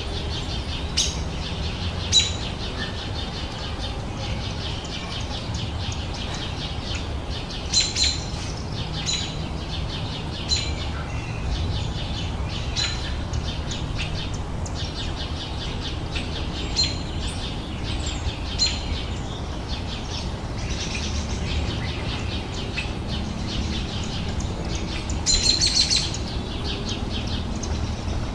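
Many small birds chirping and singing together in a continuous chorus, with sharper, louder calls standing out now and then, over a low steady background rumble.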